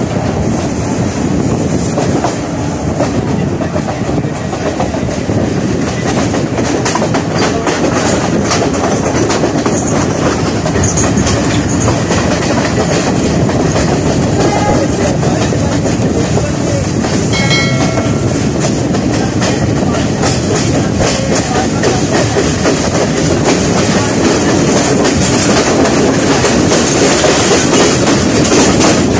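Passenger train carriage running at speed, wheels clattering rhythmically over rail joints under a steady rumble of running noise, heard from an open carriage doorway. Near the two-thirds mark a short high tone sounds briefly.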